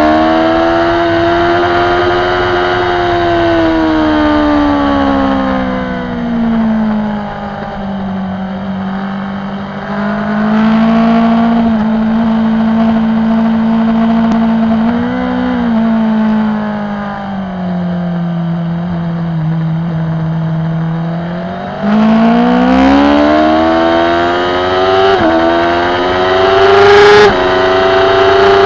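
BMW S1000RR's inline-four engine under race riding. The revs fall as the bike slows, stay low and fairly steady through a long corner, then climb hard from about three-quarters of the way through, with quick upshifts near the end.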